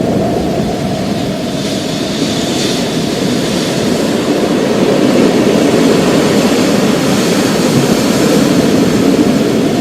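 Rolling thunder in a storm: a low, steady rumble that slowly grows louder.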